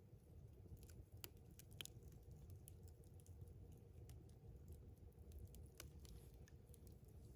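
Wood campfire crackling faintly: scattered sharp pops and snaps, a few louder ones about a second in, near two seconds and near six seconds, over a low steady rumble.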